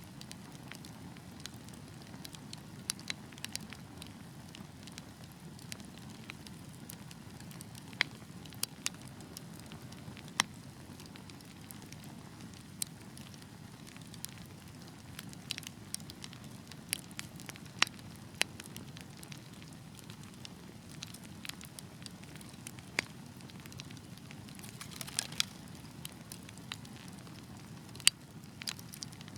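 Wood fire burning with a steady low rumble of flames and irregular sharp crackles and pops, several louder pops standing out and a brief flurry of crackling near the end.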